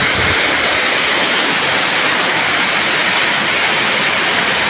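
Heavy rain pouring down in a storm, a dense, steady hiss, falling hard enough that water is starting to flood.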